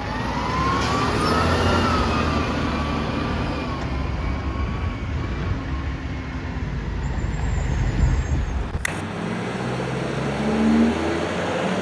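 Natural-gas automated side-loader garbage truck working at idle: the engine runs low and steady while a whine rises and then falls in pitch over the first few seconds. About three quarters in, the sound changes abruptly, and an engine then rises in pitch near the end.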